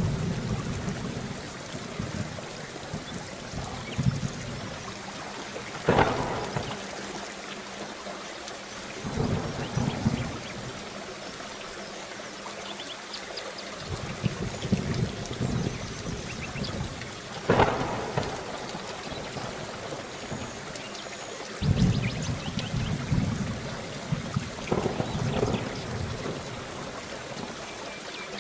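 Steady heavy rain with thunder: low rolling rumbles come and go, with two sharp thunder cracks, one about six seconds in and another just before eighteen seconds.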